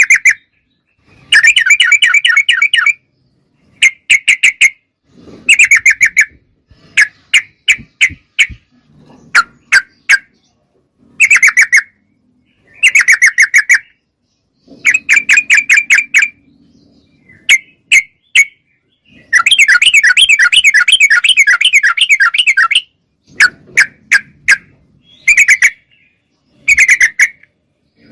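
Yellow-vented bulbul (trucuk) singing loudly: short, rapid bubbling phrases of quickly repeated notes, broken by brief pauses, with one longer unbroken phrase of about four seconds past the middle.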